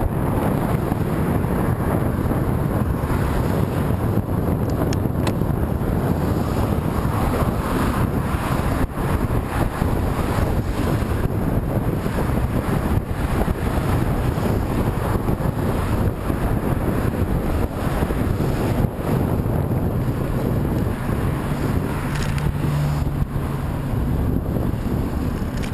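Wind buffeting the microphone, a steady loud rumble, from travelling into a headwind. A brief low hum joins in about 22 seconds in.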